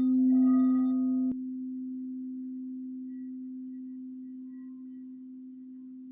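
Singing bowl sounding a steady low ringing tone with higher overtones. About a second in, a click cuts the overtones off sharply, and the low tone rings on, slowly fading.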